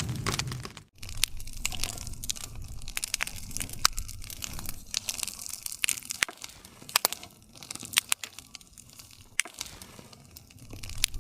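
Wood fire crackling, with irregular sharp pops and snaps of burning wood over a low hiss of the flames. The sound briefly drops out about a second in.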